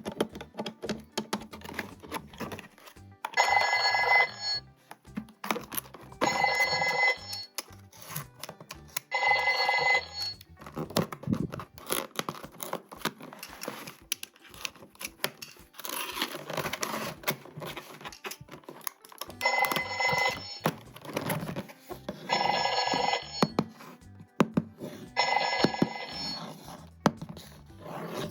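Electronic telephone-style ringing: three rings about three seconds apart, a pause of several seconds, then three more. Light clicks and plastic handling noise sound between the rings.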